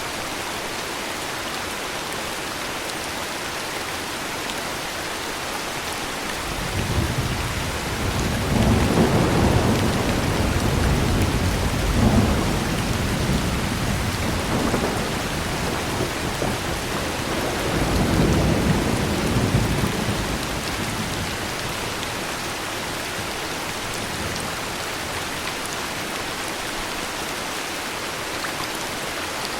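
Heavy rain falling steadily, with a long roll of thunder that builds about six seconds in, swells twice, and fades back to rain alone after about fifteen seconds.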